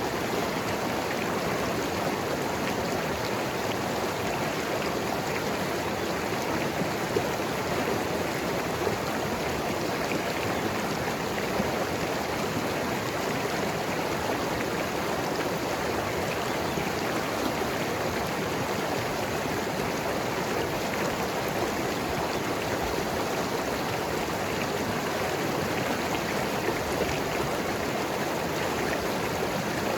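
Mountain river rushing and gurgling over rocks, a steady full water noise with small splashes.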